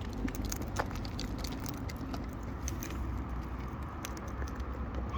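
Sparse, irregular small clicks and ticks of parrots feeding, cracking and handling seed, over a steady low rumble.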